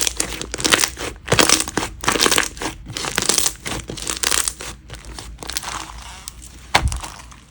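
Slime being squeezed and pressed by hand, giving a run of crinkly, crackly pops several times a second that thin out near the end, with one soft thump.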